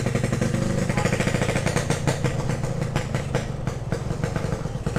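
Yamaha RX-King two-stroke single-cylinder engine running steadily at low revs through a 'setengah dewa' aftermarket exhaust, a rapid, even popping from the pipe. The exhaust sounds booming and still noisy, even though holes have been drilled into it.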